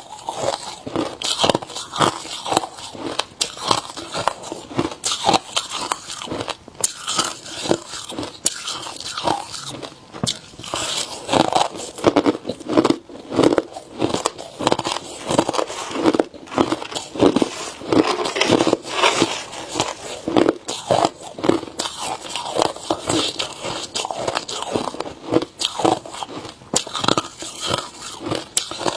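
Ice being bitten and chewed close to the microphone: rapid, continuous crunching and cracking of ice between the teeth.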